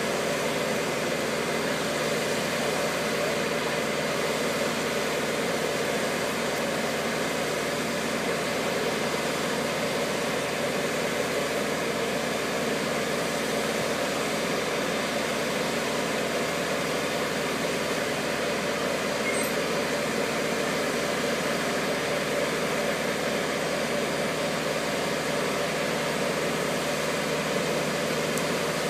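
Engine of a mobile boat gantry hoist running steadily at an even pace.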